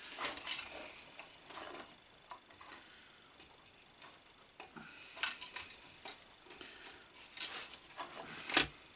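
Hand handling of an electrical cable and small parts: scattered rustling scrapes and light clicks as a mains lead is pushed through a hole in the grinder base, with the loudest scrape near the end.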